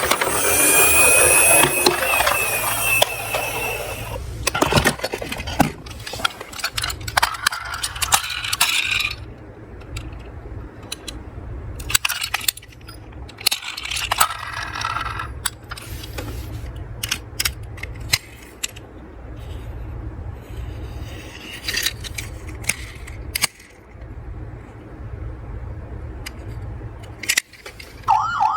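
Toy cars clattering and rolling on a slope: many sharp clicks, rattles and short scrapes, busiest in the first third and sparser after, over a steady low hum.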